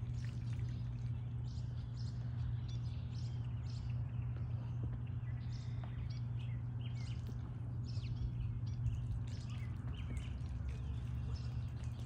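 Backyard ambience: a steady low hum with many short, high chirps scattered through it, typical of small birds calling around the yard.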